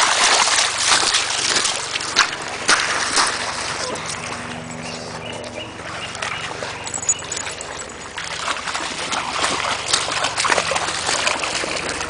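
Water splashing and sloshing as a pug wades through a shallow river, in irregular bursts. It quietens for a few seconds in the middle, then picks up again.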